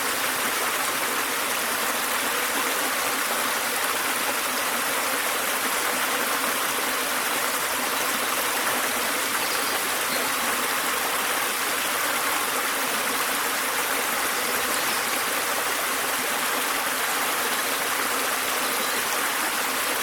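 Small waterfall: water falling and splashing in a steady, even rush, with little low rumble.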